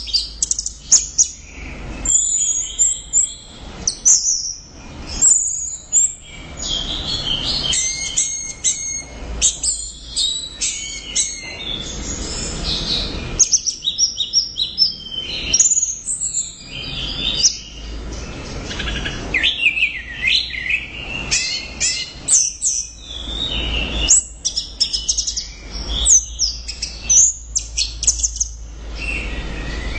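Orange-headed thrush (anis merah) singing loudly and continuously: a long run of varied high whistles, slurred notes and rapid chattering strokes, with short pauses between phrases.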